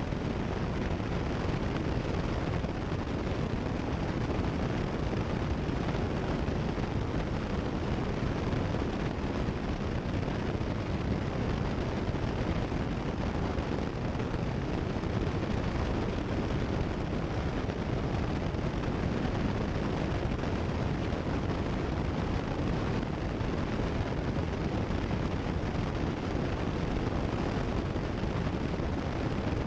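Cessna 172 Skyhawk's piston engine and propeller running steadily in level cruise, an even drone heard inside the cockpit.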